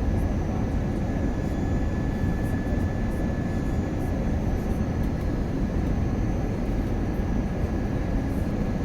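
Steady cabin noise of an Airbus A321 airliner, a low rumble of engines and airflow with a faint steady whine, heard from inside the passenger cabin.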